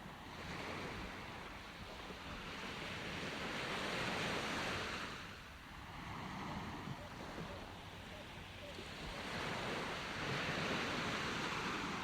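Ocean waves breaking and washing on a shore, two slow surges of surf swelling and fading, about six seconds apart.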